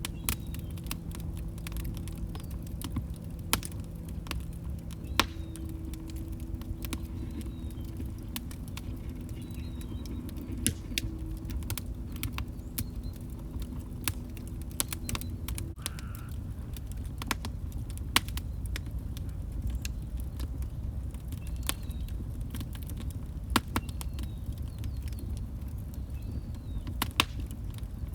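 Wood fire crackling: irregular sharp pops and snaps over a low steady rumble of the burning logs. A faint low hum runs under it and stops about halfway through.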